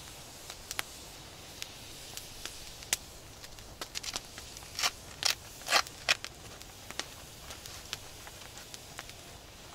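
A camping-stove windscreen being set up around a gas burner: scattered sharp clicks, with a cluster of louder crinkling rattles about five to six seconds in.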